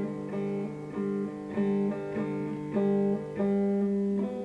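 Guitar playing a slow picked accompaniment, a new note or chord about every half second.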